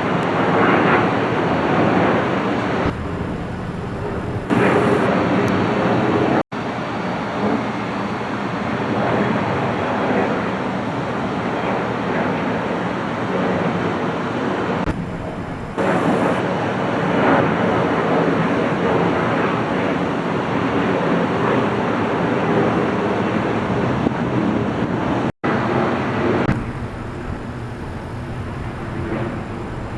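Steady rushing noise of jet aircraft at an airport, mixed with wind on the microphone, changing abruptly at several cuts and dropping out for an instant twice.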